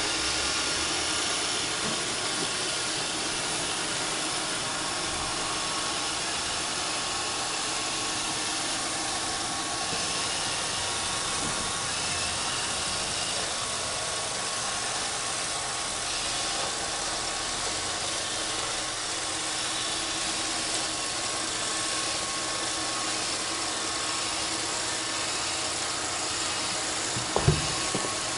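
Roomba 531 robot vacuum running, a steady whir and hiss of its vacuum motor and brushes. A single short knock near the end.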